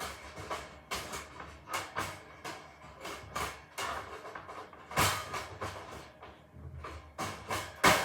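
A series of irregular knocks and clatters, two or three a second, with a louder knock about five seconds in and another near the end.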